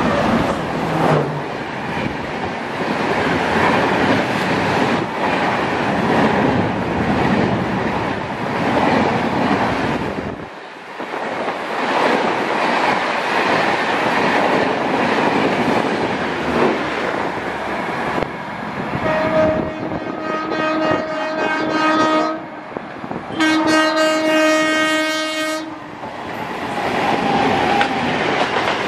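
Shatabdi Express running through at speed: a steady rushing roar of wheels on rail with the clickety-clack of rail joints. About two-thirds of the way through, a train horn sounds two long blasts of two to three seconds each, the first slightly longer. Near the end a local EMU runs past on the adjacent track.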